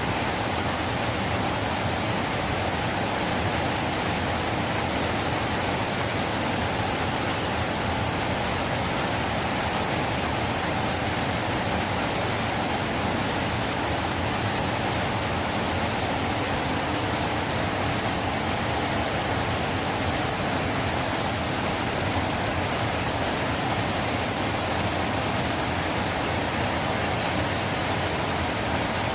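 River water flowing, a steady, unbroken rush of water that does not change.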